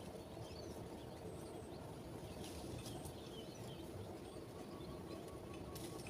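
Faint, scattered bird chirps over a steady low background rumble, with a few soft clicks.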